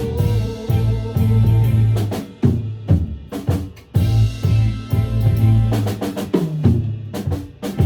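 A band rehearsing: a drum kit playing kick and snare over sustained low bass notes, with a few short breaks where the bass drops out and single drum hits stand alone.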